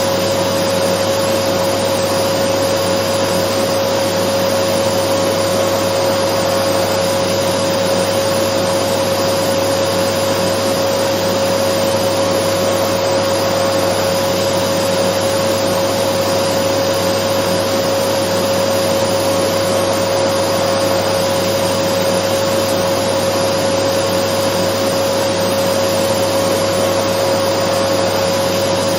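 Dyson vacuum cleaner running steadily: a constant rushing hiss of air with a steady whine held on one pitch, unchanging throughout.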